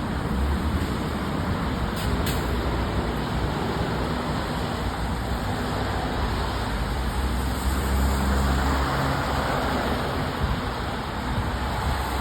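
Fire engine's diesel engine running as the apparatus pulls out, a steady low rumble that builds to its loudest about two thirds of the way through. Two short sharp sounds about two seconds in.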